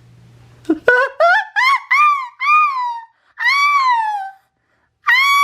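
A high-pitched screaming voice: a quick run of short rising-and-falling shrieks, then two longer drawn-out screams that sweep up and fall away.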